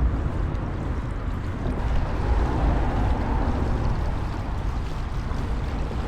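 Wind buffeting the microphone, a steady low rumble with no distinct events.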